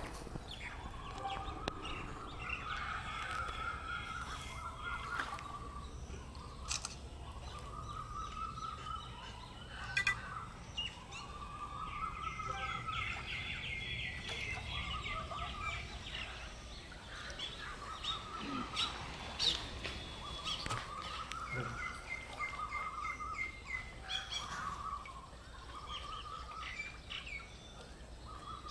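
Birds calling outdoors: a trilled, slightly rising phrase repeated about every three seconds, with bouts of faster, higher chatter, over a low steady rumble.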